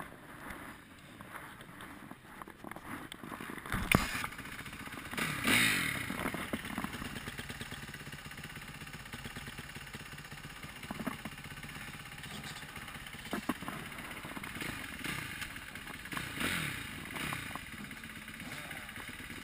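Motocross bike engine revving up and down as the bike is ridden, with a sharp knock about four seconds in and a few lighter knocks and rattles.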